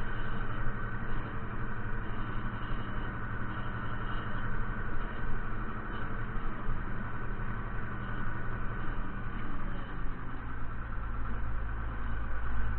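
Fiatagri 130-90 tractor's diesel engine running steadily; a deeper low rumble grows stronger about ten and a half seconds in.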